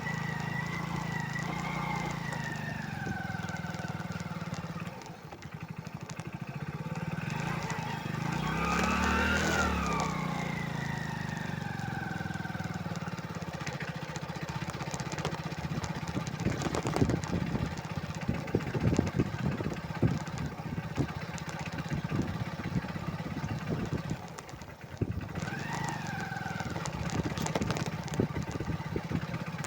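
Motorcycle engines running, with the pitch rising and falling as they rev, loudest about a third of the way in. A stretch of irregular knocks and rattles comes just past the middle.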